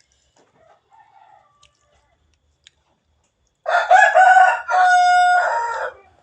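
A rooster crowing once, loud, beginning a little over halfway in and lasting about two seconds in several segments; faint chewing sounds before it.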